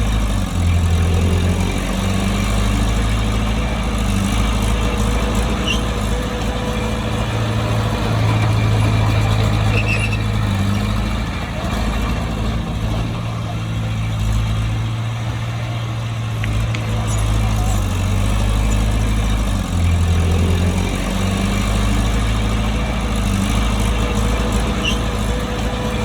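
Heavy diesel engine of a bulldozer working earth. It runs steadily, and its low note shifts up and down a few times as the load changes.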